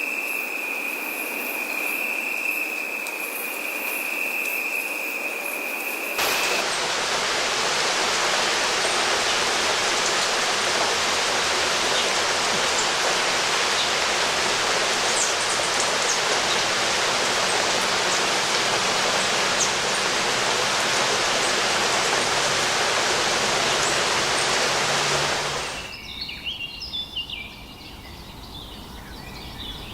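For about the first six seconds, a steady high-pitched insect drone over a soft hiss. It is then cut off by rushing water, a loud, even rush that holds steady until it stops abruptly near the end. After that come scattered bird chirps.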